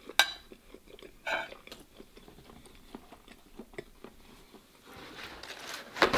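Close-up sounds of a man eating noodles: wet chewing with small mouth clicks, and a sharp click just after the start. Near the end, a rising rustle ends in a loud tear as a sheet of paper towel is pulled from the roll.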